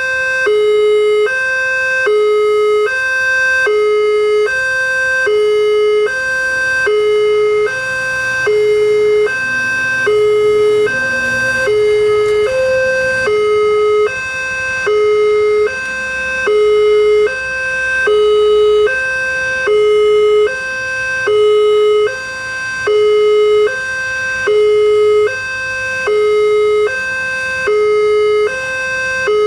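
Railway level-crossing warning alarm sounding: two electronic tones swap back and forth about once a second in a steady repeating pattern, signalling that a train is approaching and the barrier is closing.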